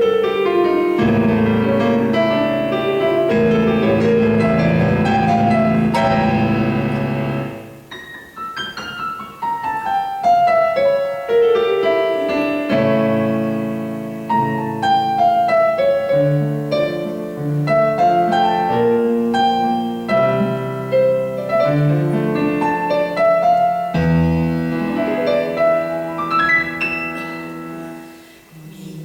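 Piano playing alone: a full, loud passage of chords that dies away about seven seconds in, followed by a lighter passage of running notes that fades out near the end.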